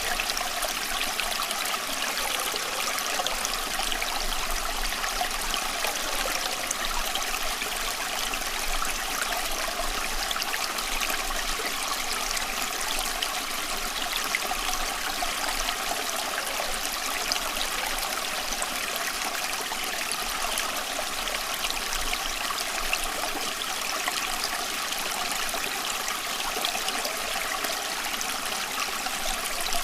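Running water flowing steadily and without a break: an even, bright rushing hiss with little deep rumble.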